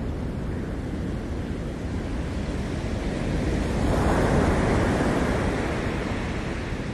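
Ocean surf: a steady wash of waves, with one wave swelling and breaking about four seconds in, then easing off.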